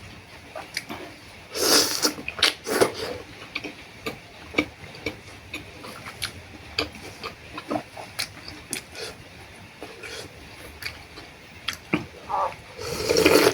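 A person eating noodle soup: two loud slurps of noodles, about a second and a half in and again near the end, with chewing and many small wet clicks in between.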